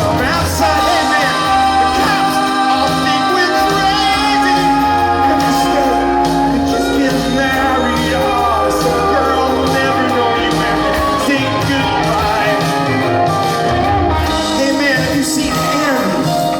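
Live rock band playing, with singing over the music.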